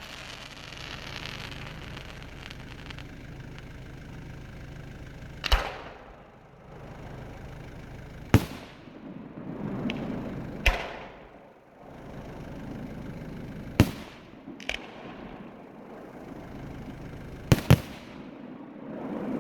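Fireworks going off: about seven sharp bangs spread over several seconds, each with a trailing echo. Two come in quick succession near the end.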